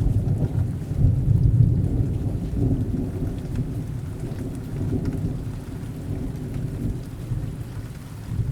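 Rainstorm with a low rolling rumble of thunder, swelling about a second in and slowly fading, over the steady sound of falling rain.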